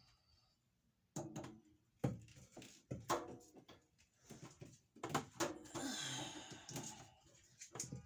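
Plumbing pipe being handled and fitted: several sharp knocks, then a longer scraping sound about five seconds in.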